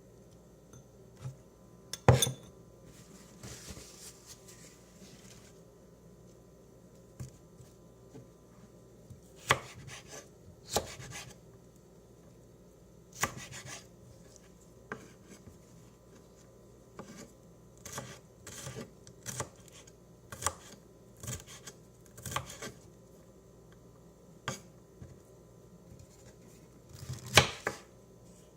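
Knife chopping food in irregular strokes: separate sharp knocks with pauses between them, the loudest about two seconds in and a quick cluster near the end.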